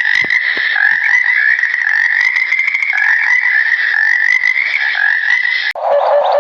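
Frogs calling in a dense chorus, a fast steady trill. Near the end it cuts off abruptly to a different, lower-pitched sound.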